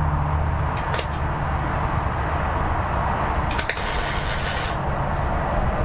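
Electric welder tack-welding the broken seat frame: a steady low hum with short bursts of crackling arc, the longest starting about three and a half seconds in and lasting about a second.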